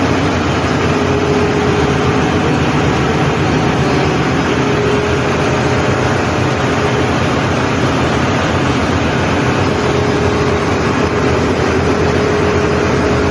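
Steady, loud engine-room machinery drone: an even wash of mechanical noise with a constant hum running through it, unchanging throughout.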